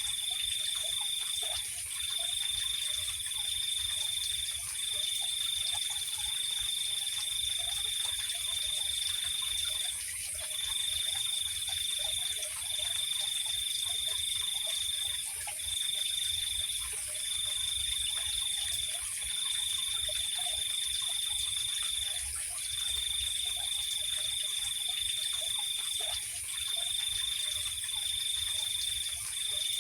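Night chorus of insects and frogs: a cricket trills steadily in long runs broken by brief pauses, over a continuous high-pitched insect hiss, with frogs calling faintly and irregularly underneath.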